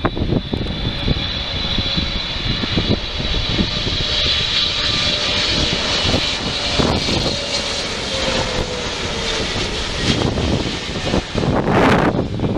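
Jet engines of a wide-body airliner passing close by, a steady high whine over a broad roar, with a lower tone falling slightly in pitch as it goes past. Wind buffets the microphone throughout, with a strong gust near the end.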